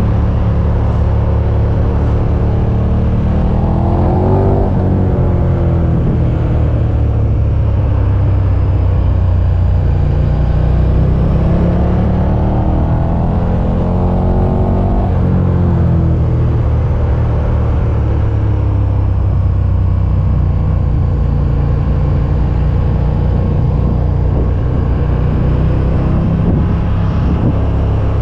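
KTM 1290 Super Duke R's V-twin engine running under way. Its pitch climbs as the bike accelerates, once just before five seconds in and again from about eleven to fifteen seconds, and each climb breaks off sharply.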